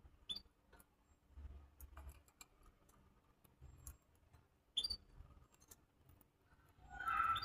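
Cage birds giving short, sharp chirps about a second in and again near five seconds, among light clicks and taps, with a louder call near the end.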